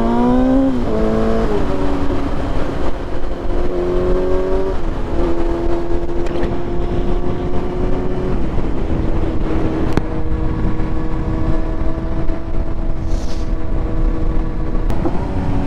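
Sport motorcycle engine pulling hard and shifting up, its pitch climbing and dropping back a few times in the first five seconds, then running at a steady pitch at cruising speed. Wind rush runs under it.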